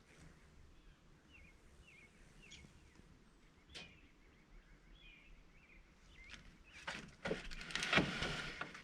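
Faint chirps of small birds, short downward-sliding notes repeated every second or so, with a single sharp click about four seconds in. Near the end comes a louder burst of rustling noise lasting about two seconds.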